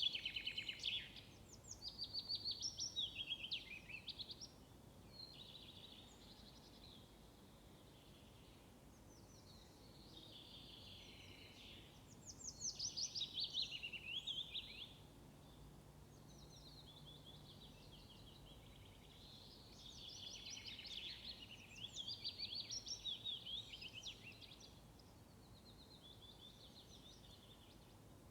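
Songbirds singing short phrases of rapid, high trilled notes, a new phrase every few seconds, over a faint steady background hiss.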